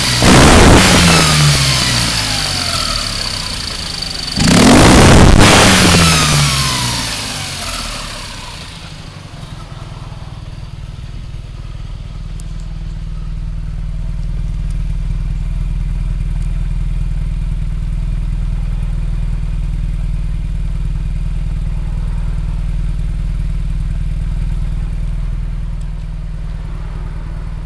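Freshly rebuilt Honda EA two-cylinder engine of a 1975 Honda Life StepVan on a test run: it is blipped up sharply twice near the start, the revs falling away each time, then it settles to a steady idle from about eight seconds on.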